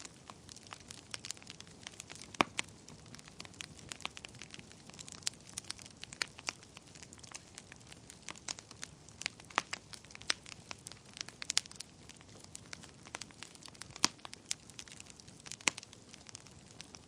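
Wood fire burning in a fireplace: a low steady hiss with many irregular sharp crackles and pops from the burning logs, the loudest pops about two and a half seconds in and near fourteen seconds.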